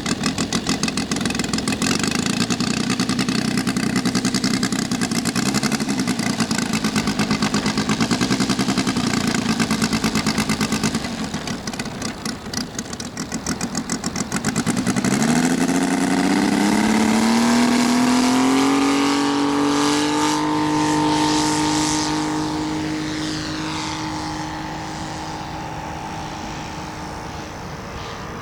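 Saito FG-84 three-cylinder four-stroke radial engine of a model aircraft, running at low throttle with a rough, pulsing beat. About halfway through it is throttled up, its pitch rising quickly to a steady high note. It then grows fainter as the plane moves away.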